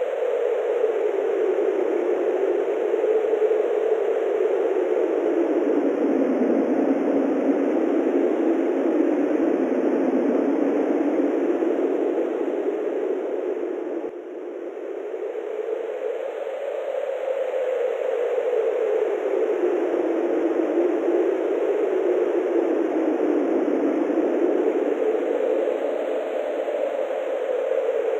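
Wind blowing over open grassland: a steady rushing hiss whose pitch slowly falls and rises again twice, with a brief lull about halfway through.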